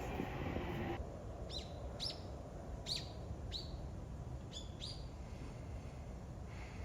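A small bird giving about six short, sharp chirps, each dropping quickly in pitch, some in quick pairs, over a steady low background hum.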